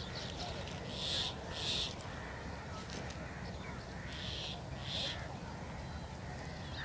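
A bird calling harshly four times, in two pairs about three seconds apart, over a steady low rumble.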